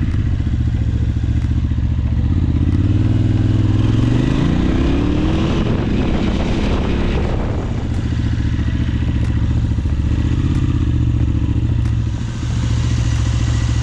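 2004 KTM 950 Adventure's V-twin engine running while the bike is ridden, heard from on the bike. Its pitch rises as it accelerates about four seconds in, then holds steady at a lower pitch, easing briefly near the end.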